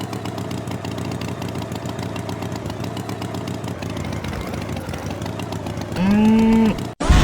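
Engine running steadily with a fast, even pulse, like a small tractor or motorbike motor. Near the end a loud held pitched tone lasts under a second, then the sound cuts off abruptly.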